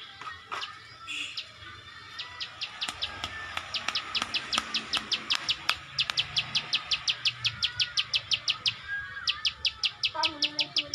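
Ciwah (klik-klik bird), a small songbird of the prinia family, singing in full voice: long, even runs of sharp clicking notes at about five a second, pausing briefly near the end before starting again, with a few softer warbled notes in between.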